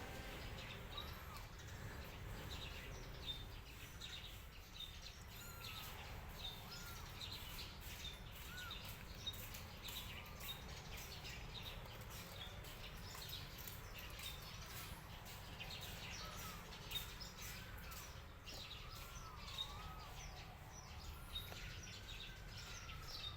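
Outdoor ambience of small birds chirping repeatedly in short calls over a steady low rumble. A siren wails up and then falls away in the last few seconds.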